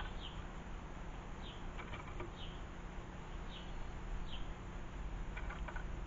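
A small garden bird repeats a short, high, down-slurred call note about once a second. A few faint clicks come about two seconds in and again near the end, over a steady low background rumble.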